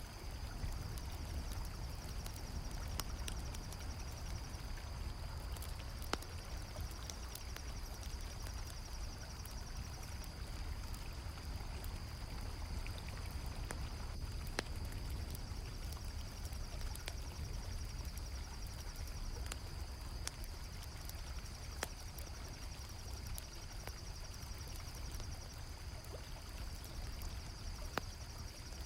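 Night ambience of a river flowing steadily, with the sharp crackles and pops of a campfire scattered through it and a continuous high chirring of crickets.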